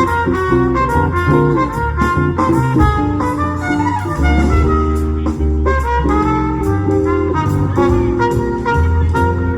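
Swing jazz band playing an instrumental break, a brass lead melody over bass and rhythm.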